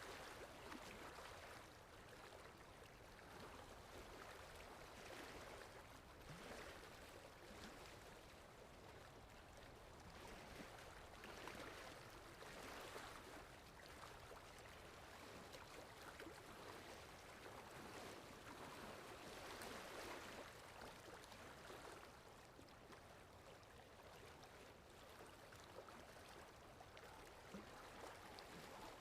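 Faint sea waves washing in, a continuous hiss of water that swells every few seconds.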